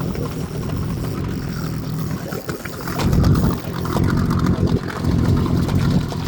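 A boat's motor running, a rough low rumble that swells louder about three seconds in.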